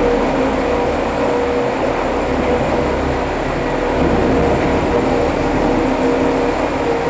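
PAUS PMKT 8000 tunnel truck running steadily as it drives through a tunnel: a constant engine and road noise with a steady whine, its sound echoing off the tunnel walls.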